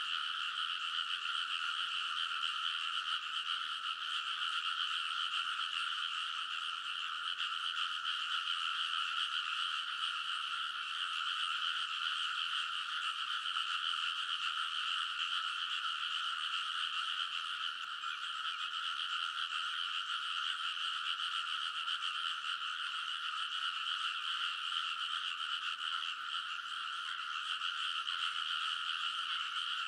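A dense chorus of many frogs calling together from a rice paddy, a steady unbroken din of overlapping croaks with no pauses.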